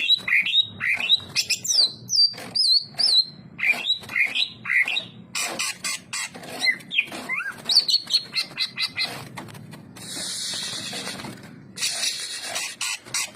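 Greater green leafbird (cucak ijo) singing a fast, varied song of chirps, whistles and sliding notes. A harsh hiss of about a second and a half comes about ten seconds in.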